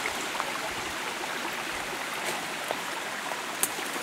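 Small forest stream running into a pool, a steady rush of water with small splashes and drips, and a short sharp click about three and a half seconds in.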